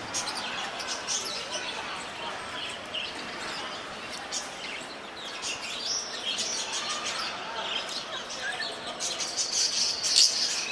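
Small songbirds chirping and twittering, several at once, with a quick run of trills growing busier and louder near the end.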